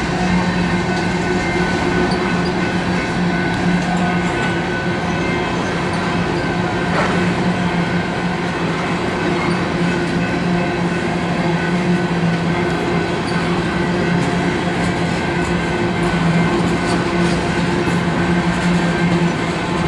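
Covered grain hopper cars of a freight train rolling past, a steady rolling rumble of steel wheels on rail with a constant low hum.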